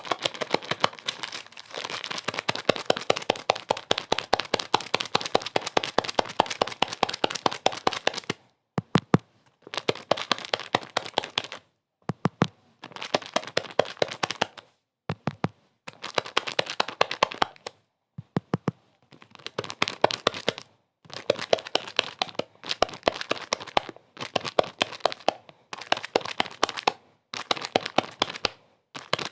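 Dense crackling and crinkling made of rapid clicks, continuous for about the first eight seconds, then in bursts of one to three seconds separated by short silent gaps.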